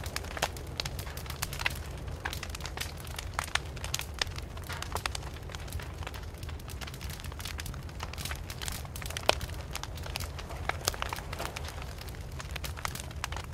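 Wood fire burning with irregular crackles and sharp pops over a steady low rumble, one louder pop about nine seconds in.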